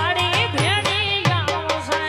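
Live Indian folk music: an ornamented melody with sliding notes over a steady hand-drum rhythm whose bass strokes bend down in pitch.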